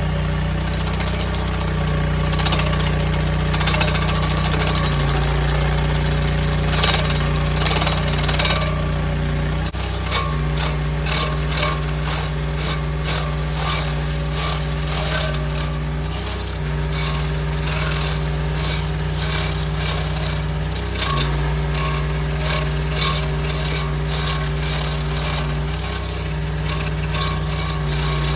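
Mini skid steer engine running hard while its hydraulic stump grinder wheel chews into an oak stump, with a dense crackle of wood chips flying off the teeth. The engine note shifts several times, about five, ten, sixteen and twenty-one seconds in, as the grinder takes and eases its load.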